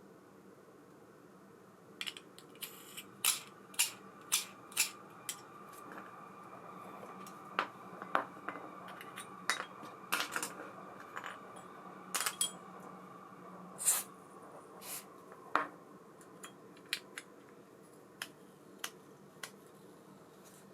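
Small metal parts of a baitcasting reel clicking and clinking as it is handled, about two dozen irregular sharp ticks, with a faint steady high hum through the middle stretch.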